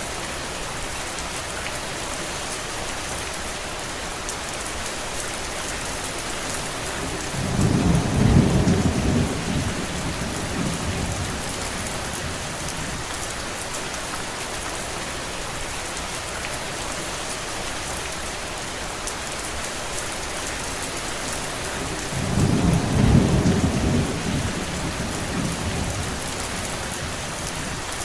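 Steady, heavy rain falling, with two low rumbles of thunder rolling through, one about eight seconds in and another about twenty-two seconds in.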